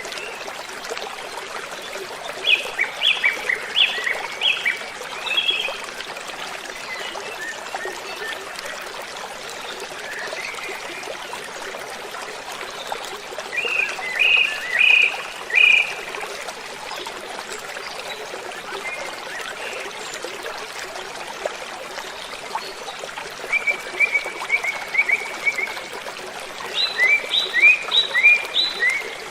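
Steady rush of a waterfall, with a songbird singing short phrases of quick repeated notes four times over it; one of the phrases is a fast even trill.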